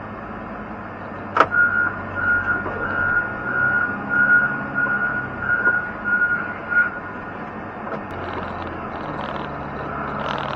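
A snow-plowing machine's engine running, with a sharp clank about a second and a half in. Then its reversing alarm beeps about twice a second for some five seconds while it backs up.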